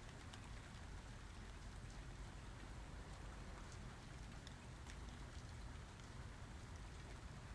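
Steady, fairly quiet rainfall, with scattered individual drops ticking sharply over the even hiss.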